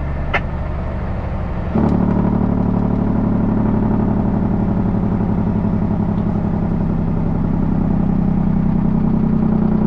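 Heavy truck's diesel engine running steadily, then stepping up in level about two seconds in and holding a strong, even drone under load; a small click sounds just before the step.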